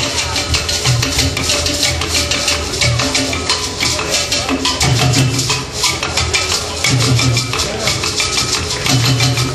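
Live African drum-and-percussion music amplified over a stage PA, with a fast, steady rattle on top of the drums and deep low notes about every two seconds.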